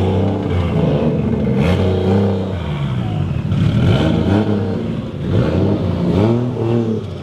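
Car engines revving up and down again and again, two at once at times, as drift cars are driven hard.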